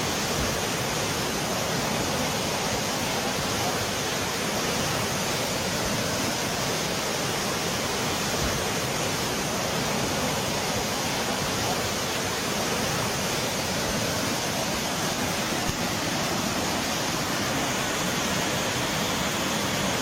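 Steady, unchanging rushing noise of water.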